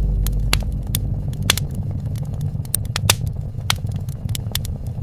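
Wood fire crackling: irregular sharp pops and snaps from the burning logs, the loudest about three seconds in, over a low rumble.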